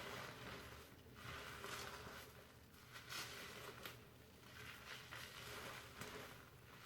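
Fingers slowly working shampoo lather through hair: a faint, soft crackling rustle of foam that swells and fades in strokes about a second apart.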